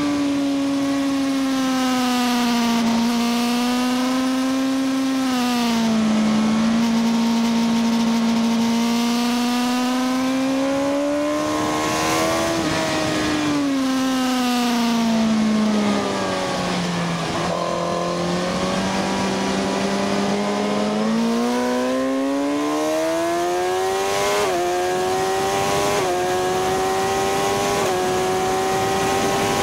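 Sport motorcycle engine heard from on board at speed on a racetrack, with wind rushing over the microphone. The engine note falls as the bike slows for a corner around the middle, then climbs again, stepping down briefly at each of several quick upshifts near the end.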